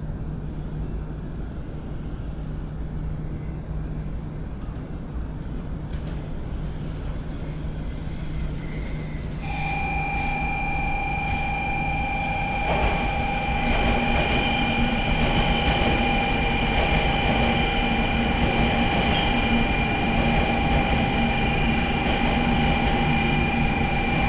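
A 700 series Shinkansen train running in on its arrival, its rumble growing louder. About ten seconds in, a steady high squeal sets in and holds, with a couple of sharp clacks a few seconds later.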